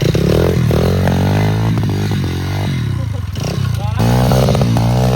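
Pit bike's small single-cylinder engine running and being revved, the pitch climbing and dropping several times as the throttle is blipped, with quick up-and-down revs in the second half.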